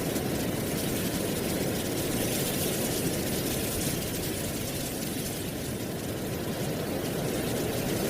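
Wind blowing through trees and dry leaves: a steady, even rustle with a deep rumble under it. It eases a little past the middle and builds again near the end.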